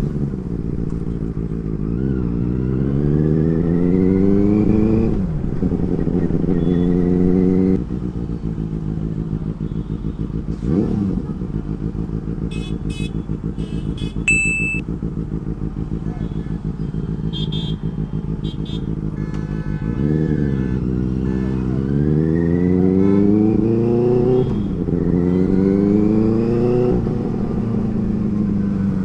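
Benelli 600i's inline-four engine accelerating through the gears, its pitch climbing and then dropping back at each upshift, in two runs of acceleration with a steadier cruising stretch between. A few short high-pitched tones sound in the middle stretch.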